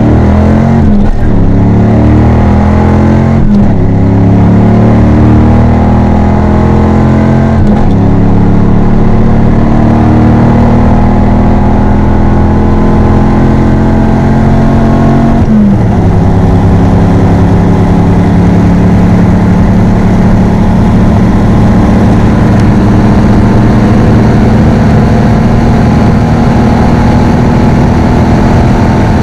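A 1994 Camaro Z28's LT1 5.7-litre V8 with an SLP Loudmouth LM1 exhaust under hard acceleration, heard from inside the cabin. The engine note climbs in pitch and drops sharply at each upshift, about 4, 8 and 16 seconds in, then climbs slowly in the top gear at high speed.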